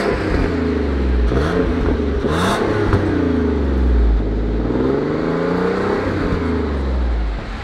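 Car engine being revved repeatedly while stationary, its pitch rising and falling several times over a deep low rumble, dropping off just before the end.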